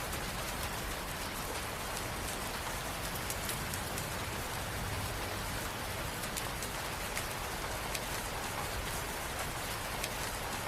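Steady rain falling, a constant hiss with scattered distinct drop ticks.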